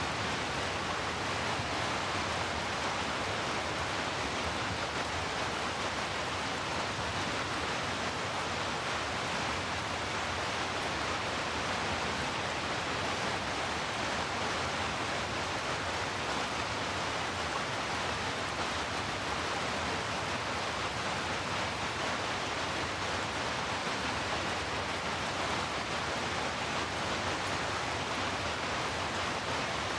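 Heavy rainfall blended with brown noise, a steady, even wash of noise with no single drops or other events standing out.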